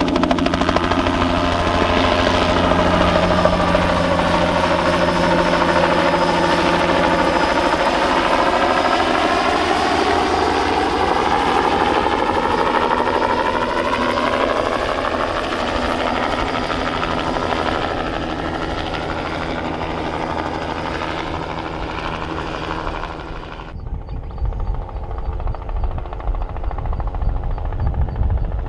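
Bell 206B-3 JetRanger III helicopter running: its turboshaft whine and rotor noise, with the pitch dipping and then rising as it flies its spraying run. The sound cuts off abruptly about three-quarters of the way through, leaving a quieter, uneven low rumble.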